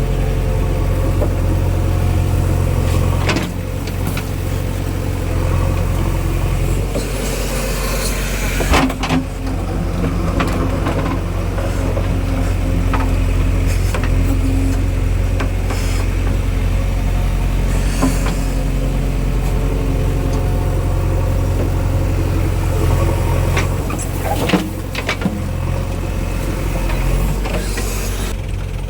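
Heavy diesel engine running steadily, from a JCB backhoe loader or the Eicher tractor at work, with a few sharp metallic clanks, the loudest about 9 s in.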